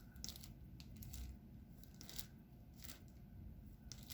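Faint, scattered clicks and crinkly rustles from hands working on a diamond painting, about five short ticks in four seconds.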